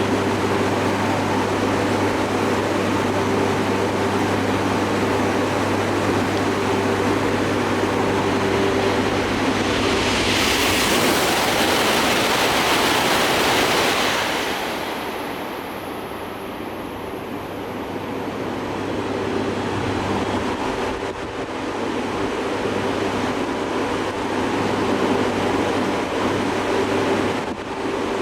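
E5 series Shinkansen passing through the station without stopping: a steady rushing roar that swells to its loudest, with a hiss, about ten to fourteen seconds in, then fades. A steady low hum runs underneath.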